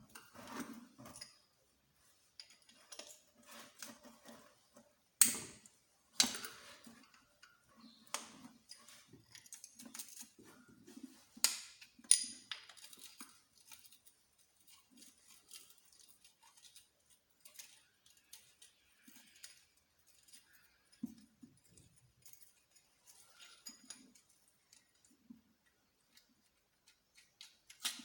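Scattered metallic clicks, clinks and knocks of hand tools and small engine parts being handled, with a few sharper knocks about five to six seconds in and again around eleven to twelve seconds in.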